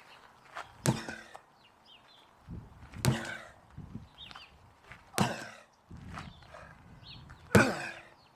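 A 16 lb sledgehammer landing four times, about two seconds apart, each strike a sharp thud with a short ring after it.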